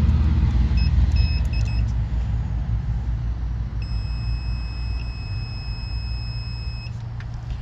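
Multimeter continuity beeper sounding across the compressor's terminals: a few short beeps as the probes touch, then one steady beep about three seconds long, showing the winding circuit is continuous. A low steady rumble runs underneath.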